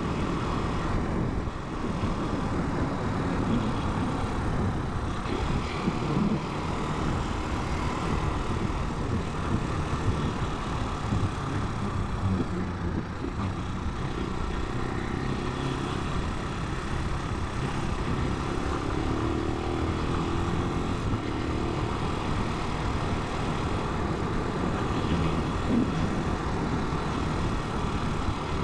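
Italika 250 motorcycle being ridden, its engine running steadily under way with road noise.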